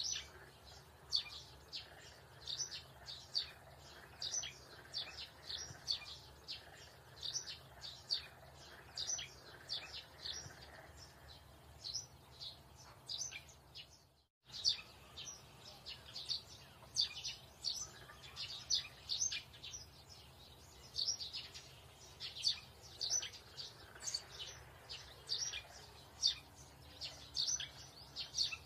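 Small birds chirping, a quick steady run of short high notes, several a second, over a faint low hum. The sound cuts out to silence for a moment about halfway through.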